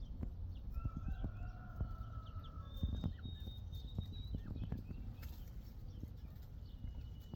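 Baby chicks peeping: many short high chirps and a few longer held peeps. Scattered small taps and clicks run through it, over a steady low hum.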